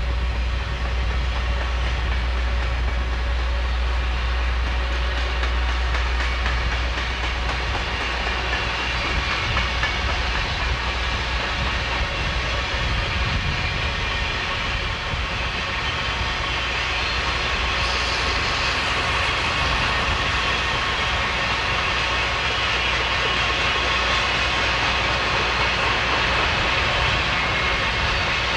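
Freight train of boxcars, tank cars and covered hoppers rolling past, a steady rumble of wheels on the rails. A deep low rumble eases off about seven seconds in.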